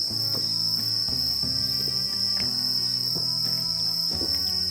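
Crickets trilling steadily at a high pitch, with background music playing changing notes beneath them.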